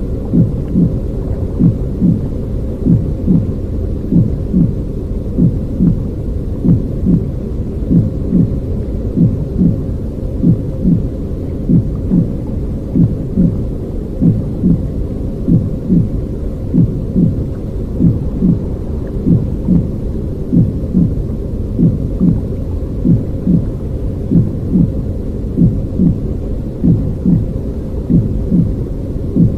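Baby-soothing noise track: a muffled, low rumbling noise with a regular pulse of about one and a half beats a second, like a womb-and-heartbeat sound, running without change.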